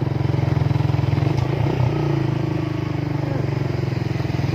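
Motorcycle engine running steadily under way, with a fast even pulsing note and a small dip and rise in pitch about halfway through.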